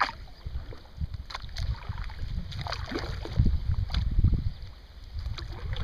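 Wind buffeting the microphone while kayaking, with a few light splashes or drips of water from the paddling.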